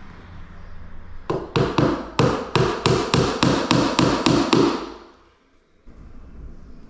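Hammer tapping a nail into a skirting board: about a dozen quick, even blows, about three a second, stopping shortly before the end.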